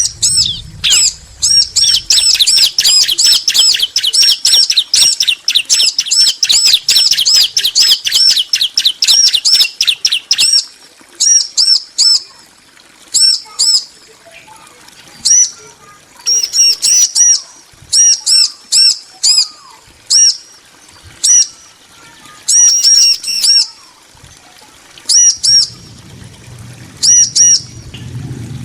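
Bar-winged prinias (ciblek), male and female, calling back and forth in high, sharp repeated notes: a fast, unbroken run for the first ten seconds or so, then short bursts of a few notes with pauses between.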